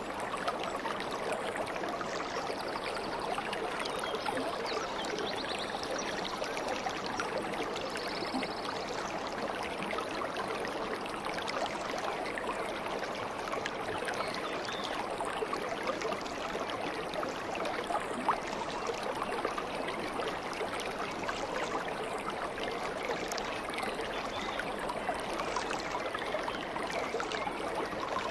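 Stream of water flowing and babbling steadily over stones.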